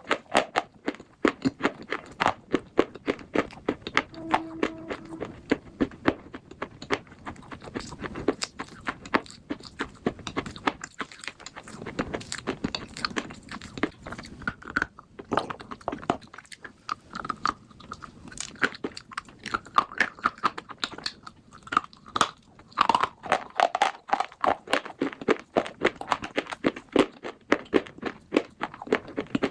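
Slate pencil bars being bitten and chewed close to the microphone: a rapid run of crisp crunches, several a second.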